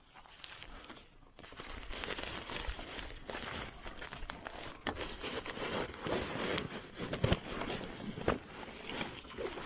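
Close rustling and crinkling with many small, irregular clicks and knocks, as the e-bike's inexpensive carrier is handled and refitted by hand. Quiet for the first second or so, then busy until the end.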